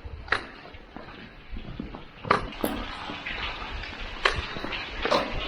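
Water dripping from the ceiling of an old brick-and-concrete railroad tunnel: a few sharp drops splashing down at irregular intervals over a wet hiss that sounds really wet, like rain.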